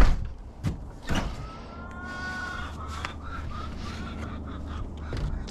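Chickens calling: a drawn-out, slightly rising call followed by short clucks, after a few knocks, over a steady low hum.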